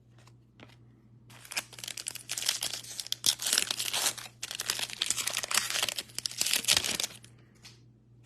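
A trading-card pack's wrapper being torn open and crinkled for several seconds, a dense crackling that starts a little over a second in and stops about a second before the end.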